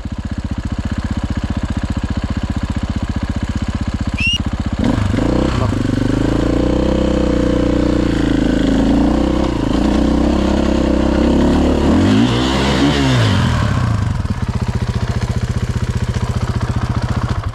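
Dirt bike engine running with a steady pulse, then revved hard from about five seconds in, its pitch swinging up and down under load as the bike is worked up a steep stair-like step. A brief high rising squeal about four seconds in.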